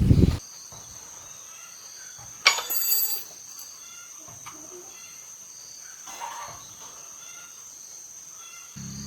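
Outdoor ambience of insects making a steady high-pitched drone and birds chirping. About two and a half seconds in there is a sharp knock followed by a brief rattle. Just before the end a low steady hum starts up.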